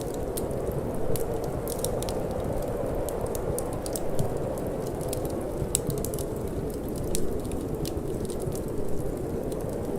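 Wood fire crackling in a fireplace, with many small irregular pops and snaps, over a steady low rush of wind.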